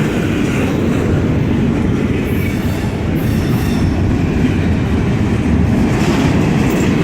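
Freight train cars rolling past close by, their steel wheels making a loud, steady rumble on the rails.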